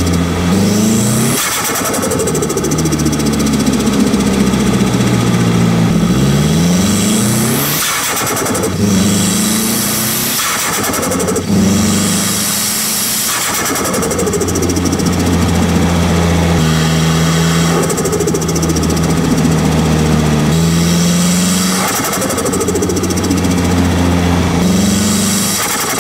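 Nissan Silvia S15's turbocharged SR20 engine with a T28 turbo, heard from a microphone at the turbo, pulling up through the revs and shifting several times. The pitch climbs and drops at each change, with the turbo fluttering and hissing on lift-off.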